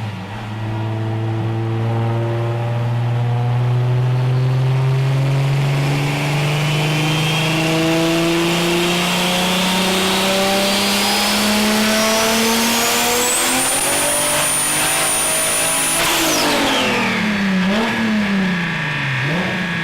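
Turbocharged car engine pulling hard under load, its pitch climbing slowly, with a high turbo whistle rising alongside and then holding. About 16 s in the throttle closes: the whistle falls away quickly and the engine speed drops, then rises and falls a couple of times.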